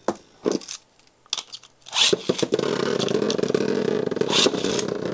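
A few clicks, then about two seconds in Beyblade Burst tops are launched and spin in a plastic stadium. They make a steady whir with rapid sharp clacks as the tops strike each other and the stadium walls.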